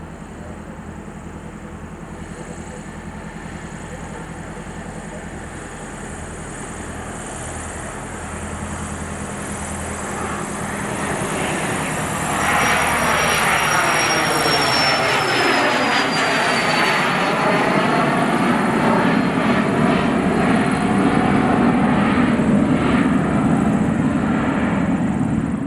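The twin turbofan engines of a Cessna 510 Citation Mustang business jet running at takeoff power. The sound grows steadily louder, with a jump about halfway through, and a high turbine whine drops in pitch a little past the middle.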